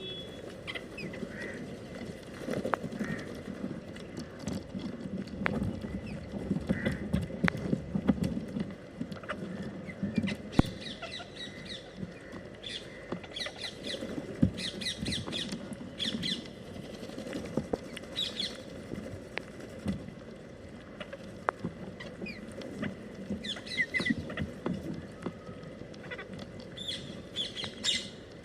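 Parrots squawking: short, high, harsh calls coming in scattered clusters, over a steady low background rumble.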